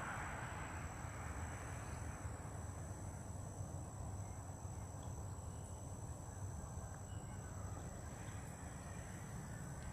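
Steady high-pitched insect trilling, as from crickets, over a low steady rumble.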